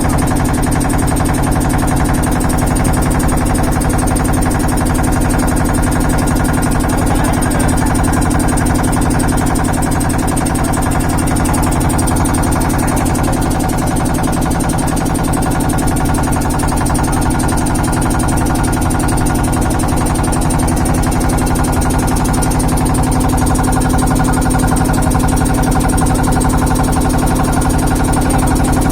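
Steady mechanical drone with a strong low hum.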